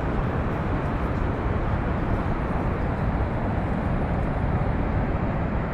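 Niagara Falls: a steady, deep rush of falling water, unbroken throughout.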